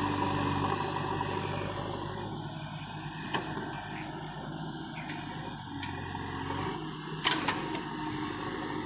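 Heavy diesel engine running, fading away over the first couple of seconds and coming back faintly later, with a few sharp knocks near the middle and end.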